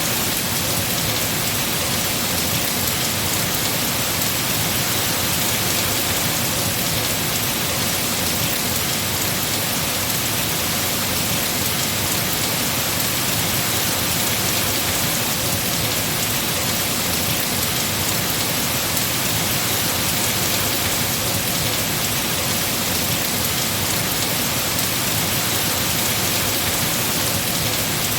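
Heavy rain falling steadily on trees, a dense, even hiss with no breaks or single drops standing out.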